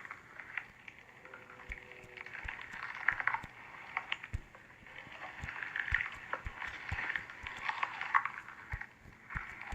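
Slime being squished and poked, giving dense small wet clicks and crackles with occasional soft thumps.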